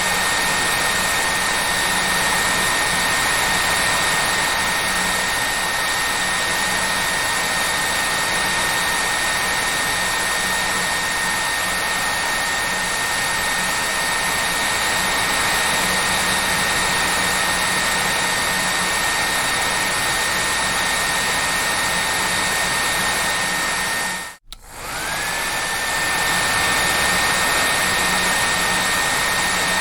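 Hair dryer running steadily: a loud even rush of air with a high motor whine over it. About three-quarters of the way through, the sound cuts out for a moment, then returns with the whine climbing back up to pitch.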